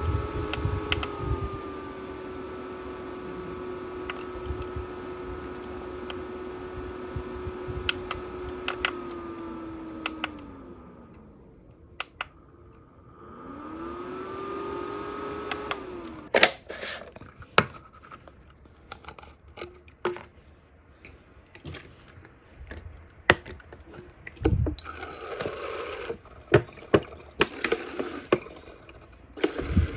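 Small electric fan motor in a mini fan humidifier whining steadily, winding down in pitch to a stop when switched off, spinning back up when switched on again, then cutting out suddenly. After that come scattered sharp clicks and knocks of the plastic unit being handled.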